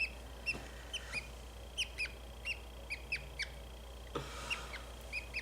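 Budgie chick giving short, repeated downward-sliding chirps, about three a second, while being held and handled. A brief rustling noise comes about four seconds in.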